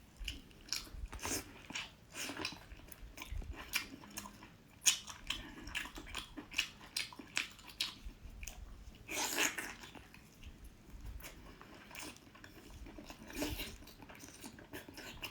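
A person biting and chewing food close to the microphone: irregular wet mouth clicks and smacks, with one longer, louder eating sound about nine seconds in.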